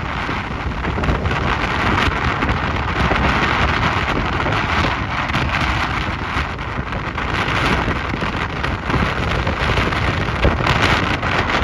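Strong typhoon wind buffeting the microphone, over a steady rushing noise of wind and rain that swells and eases in gusts.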